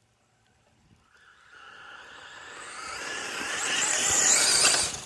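Traxxas Sledge VXL RC monster truck under full throttle: its brushless electric motor whining and its tyres tearing across the ground. The sound grows louder over about three seconds and cuts off sharply near the end.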